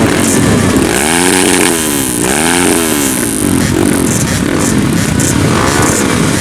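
Grasstrack racing motorcycle engine revved, its pitch rising and falling twice in quick succession about a second in, then running on unevenly.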